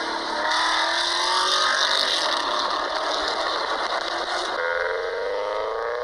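Motorcycle engine running at high revs, its pitch sagging slightly, then shifting about four and a half seconds in and climbing steadily.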